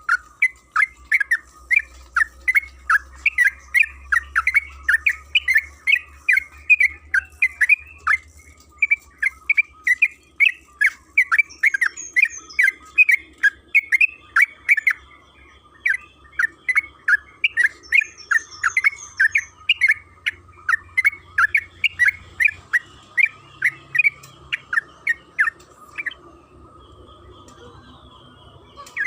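Yellow-vented bulbul (trucukan) calling in a long, fast run of short chirping notes, about three to four a second, which stops about three seconds before the end.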